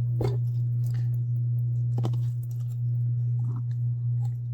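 A steady low hum, with a few faint light clicks or taps over it.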